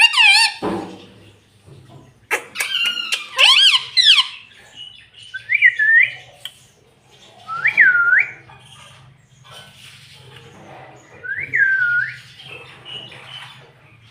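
Indian ring-necked parakeet calling: a quick run of squawks in the first few seconds, then three separate whistled notes, each dipping and rising again, spaced a couple of seconds apart.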